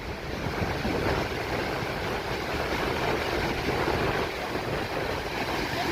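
Waterfall's falling water rushing steadily, a continuous even noise.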